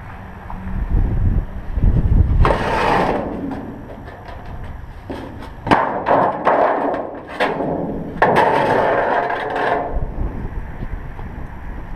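Wind buffeting the microphone, then several stretches of scraping and rustling broken by sharp knocks and clicks, mostly between about five and ten seconds in.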